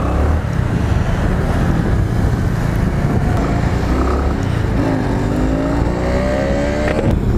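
Motorcycle riding: steady engine rumble and road noise, with a motorcycle engine revving up, its pitch rising, from about halfway through until just before the end.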